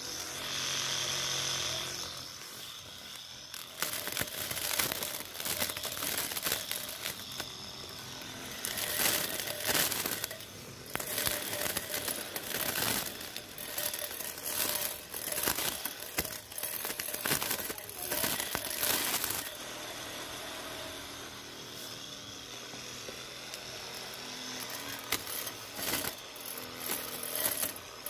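Homemade string trimmer driven by a 775 DC motor, running with a steady whine for the first couple of seconds, then cutting grass: a ragged crackling and slapping as the line tears through the stems, rising and falling in loudness as the head sweeps back and forth.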